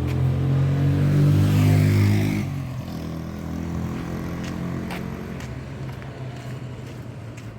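A road vehicle's engine running as it passes close by, loudest for the first two seconds or so and then fading, with traffic still running behind.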